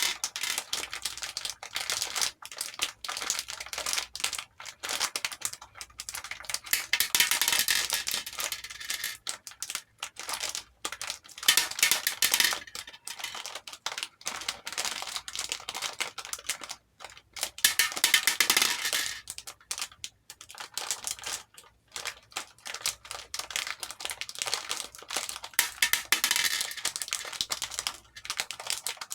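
Hair beads pouring and rattling in a bowl: a dense clatter of small clicks, swelling into several louder, fuller pours.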